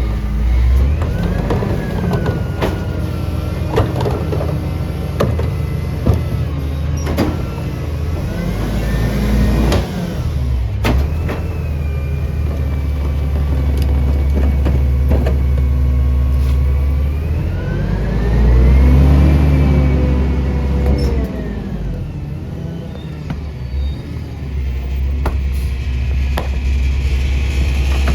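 CNG Peterbilt garbage truck with a Leach packer body, its engine running and revving up and falling back a few times, the longest rise about two-thirds of the way through. Scattered sharp clanks and knocks sound over the engine.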